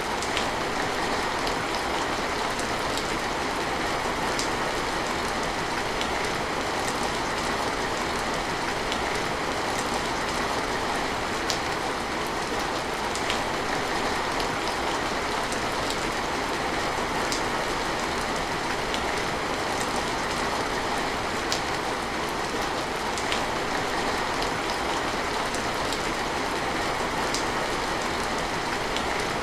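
Steady heavy rain, an even rush with scattered sharper drop hits.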